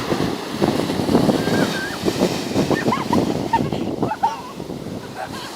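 Wind buffeting the microphone over the rush of surf on a beach.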